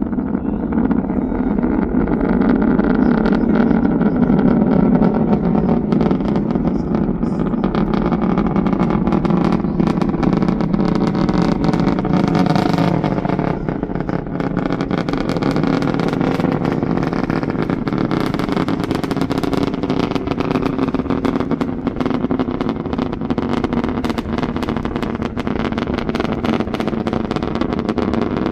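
Rocket engine noise from a Falcon 9's nine Merlin first-stage engines during ascent, heard from afar: a steady heavy rumble with dense crackling running through it.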